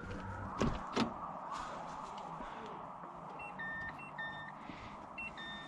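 Two sharp clicks, then a car's electronic warning chime beeping several times at a few different pitches, as the car is switched on to try the newly fitted LED headlight bulbs.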